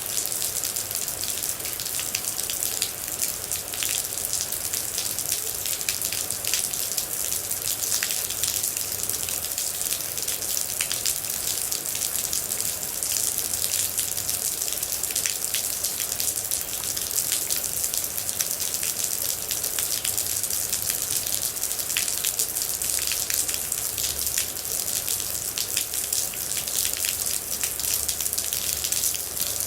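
Steady rain falling, an even hiss with many separate droplets heard striking throughout.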